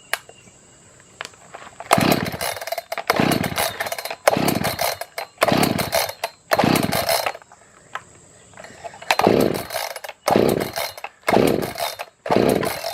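Echo CS-590 Timberwolf chainsaw's two-stroke engine being pull-started on choke: about nine quick pulls of the recoil starter in two runs with a short pause between, each a brief whirring crank that falls away without the engine catching. The saw has fuel and compression but won't start, which the owner suspects is a fuel or spark problem.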